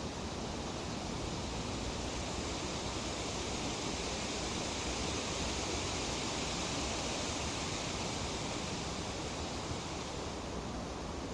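Tree leaves rustling in a steady breeze, a continuous hiss that swells a little in the middle as the wind picks up, then eases off.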